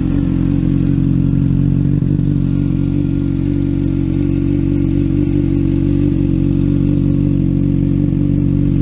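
2013 Honda CBR600RR's inline-four engine idling steadily through a Two Brothers Black Series slip-on exhaust, an even, growly idle with no revving.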